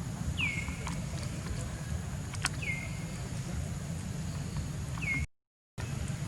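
Baby monkey giving three short, high squeaky calls, each falling in pitch, spaced about two seconds apart, over a steady low rumble. A single sharp click comes about two and a half seconds in, and the sound cuts out completely for half a second near the end.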